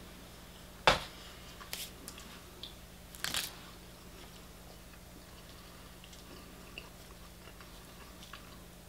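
Crispy breaded KFC fried chicken crunching as it is bitten and chewed: a sharp crunch about a second in, another cluster of crunches a couple of seconds later, then quiet chewing with small ticks.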